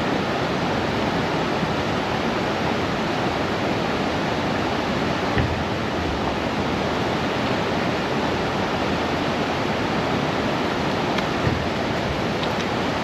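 Steady, loud rush of fast-flowing mountain water, a waterfall or torrent, with no change throughout.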